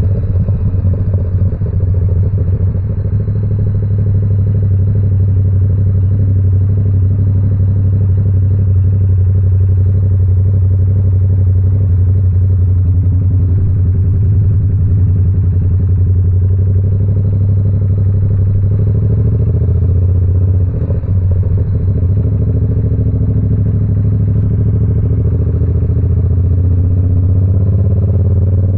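Yamaha R7's parallel-twin engine running through an SC Project CR-T exhaust while riding, its note held nearly steady at a constant speed, with a brief dip about two-thirds of the way through.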